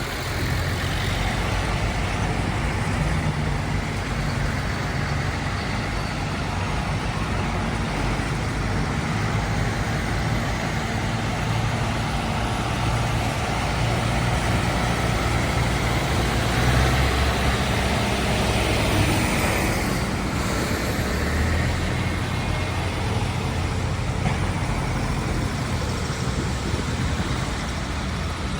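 Tractor engines running in a convoy, a steady low engine drone with road noise.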